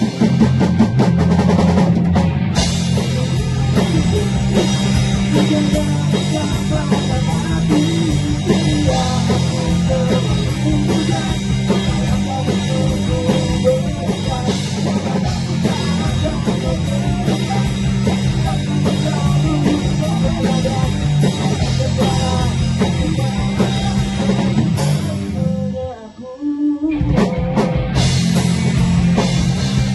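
Band playing an instrumental passage with a full drum kit and distorted electric guitars in a rock style. Near the end it drops out briefly, for about a second, then the whole band comes back in.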